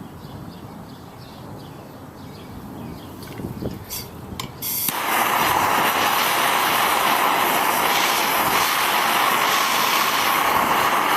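Handheld gas torch: a few sharp clicks, then about five seconds in the flame comes on with a loud, steady hiss that cuts off suddenly near the end, heating a finishing nail red hot.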